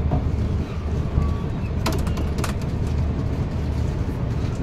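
Steady low rumble of a passenger train moving slowly out of a station, heard from on board, with a few sharp clacks from the wheels about two seconds in.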